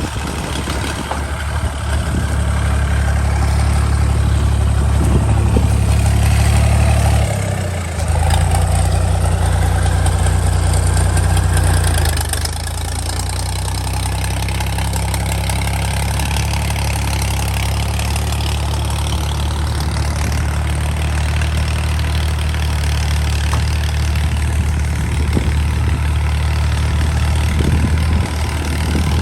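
Tractor diesel engine running steadily while pulling a rotavator. It dips briefly about seven and a half seconds in, and about twelve seconds in it drops a little in pitch and level.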